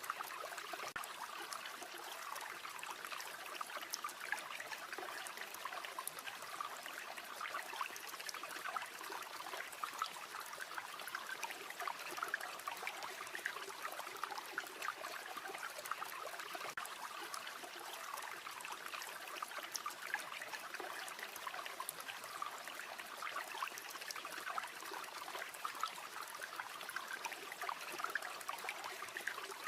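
Stream flowing steadily, a continuous trickling and babbling of water with many small splashes.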